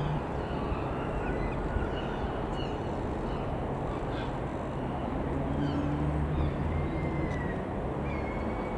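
Single piston engine of a Piper PA-28-180 Cherokee (a four-cylinder Lycoming) droning as the plane flies past, a low steady hum that grows a little stronger about halfway through. Wind rushes over it, and birds call now and then.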